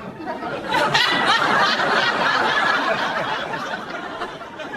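A crowd laughing together, swelling about a second in and then slowly dying down.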